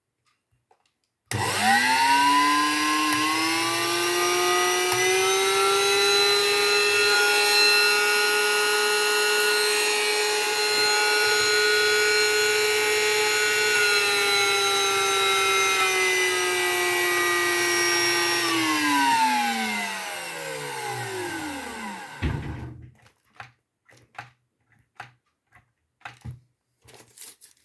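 Electric motor of an RG 28s, test-run after a repair. It starts about a second in with a rising whine that settles to a steady pitch and runs for about seventeen seconds. It is then switched off and spins down with a falling whine, followed by a few light clicks and handling knocks.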